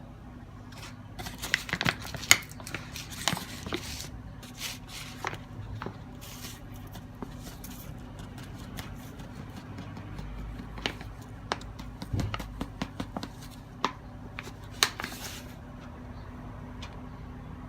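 Dry twigs crunching and snapping in irregular sharp cracks, in two busy clusters, over a steady low hum.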